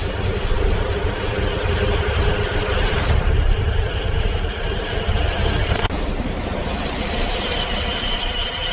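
Steady rumble and rushing noise of a high-speed train running, changing abruptly about three and six seconds in.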